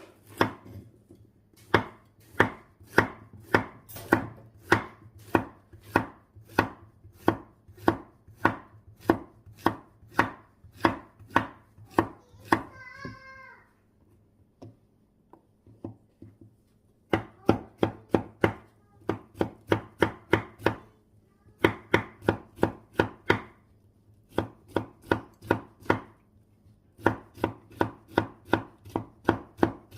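A knife chopping on a cutting board: steady sharp strikes, about two a second, in runs broken by short pauses.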